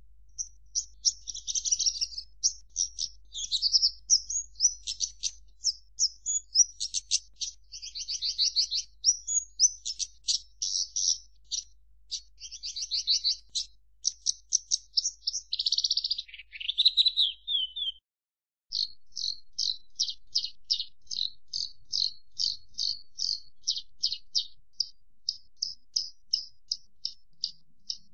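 Javan bush lark (branjangan) singing a long, varied, high-pitched song of rapid chirps and trills. After a brief break about two-thirds of the way through, it switches to a run of evenly repeated notes, a little over two a second.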